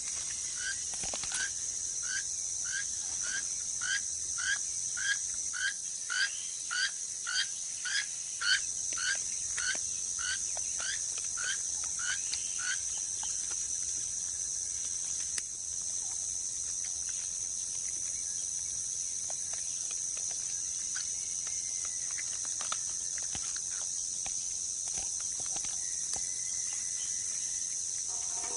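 Rainforest ambience: a steady high-pitched insect chorus. For the first dozen seconds an animal gives a run of short, upward-sliding calls about twice a second, growing louder and then fading away.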